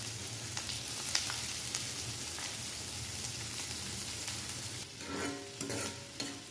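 Chopped onions frying in hot oil in a kadai: a steady sizzle with scattered crackles and pops. About five seconds in, the sizzle drops away and a few short pitched tones come in.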